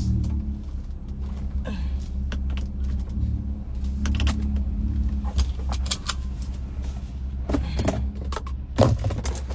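Truck engine running steadily inside the cab, with scattered clicks and rattles of handling and a sharp thump near the end.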